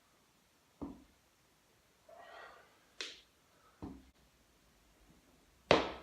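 A person exercising: one breath-like exhale and four sharp knocks, the last and loudest near the end.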